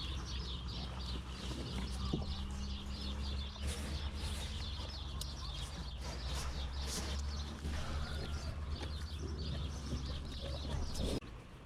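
Many small birds chirping busily over a steady low hum, which drops away near the end.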